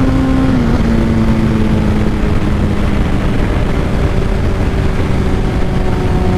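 Honda CBR600RR inline-four running through a Two Brothers full exhaust at a steady cruise. The engine note dips slightly about a second in, then slowly falls, with a heavy rush of riding wind on the microphone.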